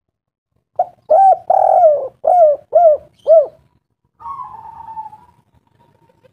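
A bird calling: a quick run of six short rising-and-falling notes, then one longer wavering note that falls in pitch.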